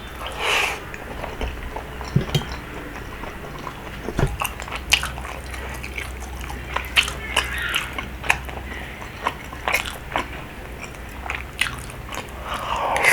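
A person chewing rabokki close to the microphone, with many short clicks and mouth sounds scattered throughout and a brief noisier sound near the start and again at the end.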